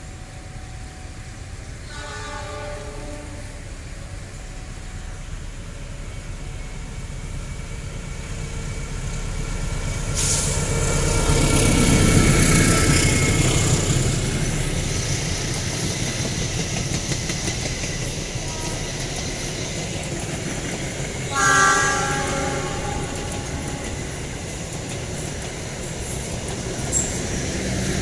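Passenger train passing close by, its rumble building to a peak about twelve seconds in and then easing off. A train horn sounds briefly about two seconds in and again, louder, about twenty-one seconds in.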